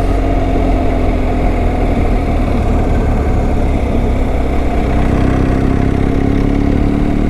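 Motorcycle engine running at a steady cruise while riding, with wind rush over it. The engine note creeps up slightly near the end.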